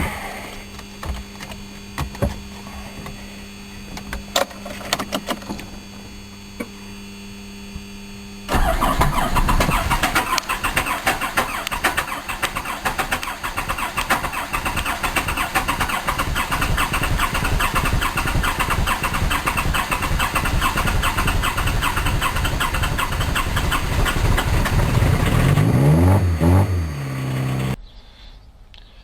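Diesel engine cold-started in deep frost: it catches suddenly about eight seconds in and runs loud with a rapid, rough clatter. Near the end its pitch falls away before the sound cuts off.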